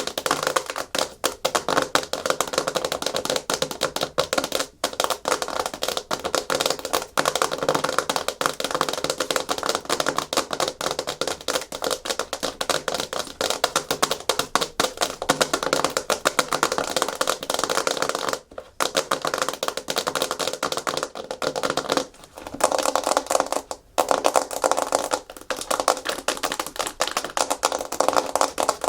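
Natural fingernails tapping and scratching fast on a hard plastic surface: a dense, rapid clatter of clicks, breaking off briefly three times in the second half.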